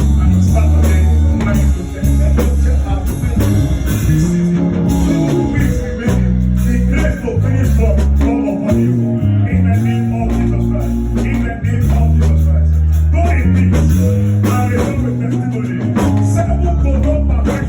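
Live church band music with a prominent bass guitar playing changing notes under guitar and drums, with some singing.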